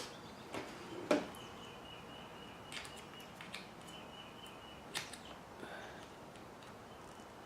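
Faint, scattered clicks and taps of small parts being handled while an RC truck transmission is taken apart, as the washer is worked off the shaft. There are about six clicks, the loudest about a second in.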